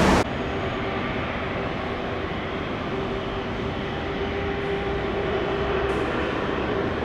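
Steady vehicle noise with a faint droning tone. A louder rush cuts off abruptly about a quarter of a second in.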